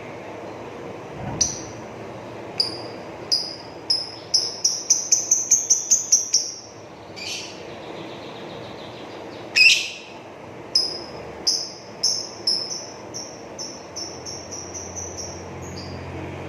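Blue-mutation lovebird singing in its long chattering 'ngrekek' style: short high chirps that speed up into rapid strings, broken by two louder, harsher screeches about seven and ten seconds in.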